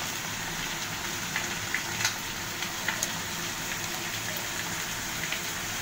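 Chicken pieces and onion frying in oil in a pan on a gas stove, a steady sizzle with a few faint pops.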